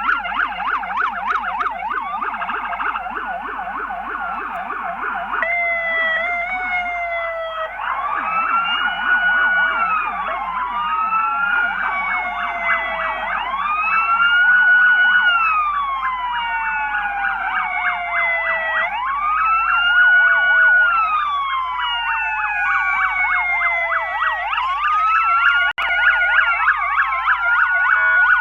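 Several police car sirens sounding together: a fast yelp warble throughout, joined about five seconds in by a slow wail that rises and falls roughly every five to six seconds.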